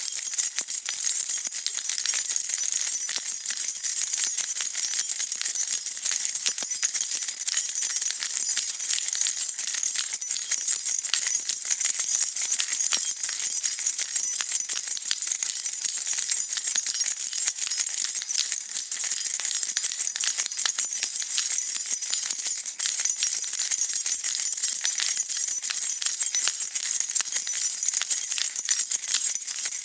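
A bunch of metal keys jingling continuously, as they would on a key ring being shaken, with dense, overlapping clinks.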